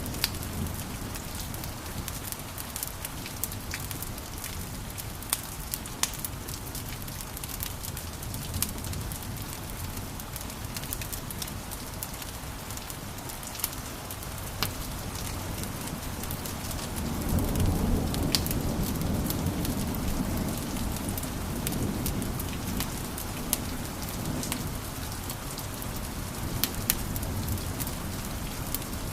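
Wood fire crackling, with frequent sharp pops and snaps over a steady hiss. A low rumble swells up about seventeen seconds in and eases off over the next few seconds.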